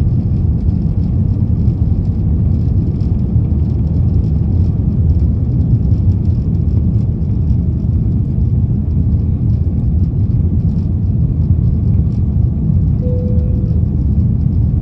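Steady low rumble of a vehicle in motion, even throughout, with a short faint tone near the end.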